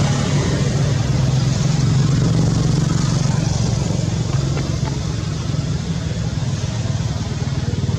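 An engine running steadily with a low, rapidly pulsing hum, easing off a little in the second half.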